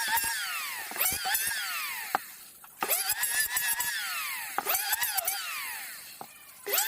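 Small electric power tool, such as a drill or grinder, working on the engine mount. Its whine repeatedly drops and recovers in pitch as it bites into the material, and it eases off twice.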